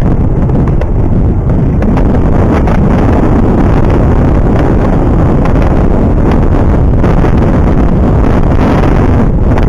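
Loud, steady wind rumble buffeting the microphone, as from riding along on a bike.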